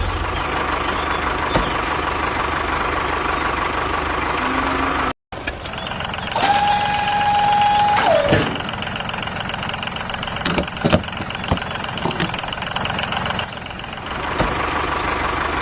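Tractor engine running steadily, with a hard cut about five seconds in. About six and a half seconds in, a held horn-like tone sounds for over a second and drops in pitch as it ends, and a few sharp clicks follow around the middle.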